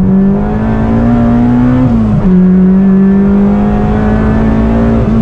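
Honda Civic EG6's VTEC four-cylinder engine, heard from inside the cabin, pulling hard under acceleration. Its pitch climbs, drops sharply at an upshift about two seconds in, climbs again, and drops at another shift near the end.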